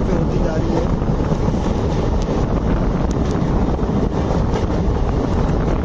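Loud steady wind buffeting the microphone over the rumble of an ICF passenger coach running at speed on the rails, heard at the open coach door.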